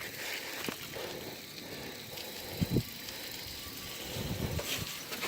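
Bicycle rolling over a rough dirt trail, tyres and frame rattling, with two short knocks about two and a half seconds in.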